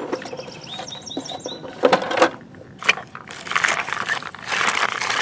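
Plastic toy construction trucks being worked in loose dirt: clicks, knocks and scraping of plastic parts and soil, getting denser in the second half. About a second in there is a quick run of about five high chirps.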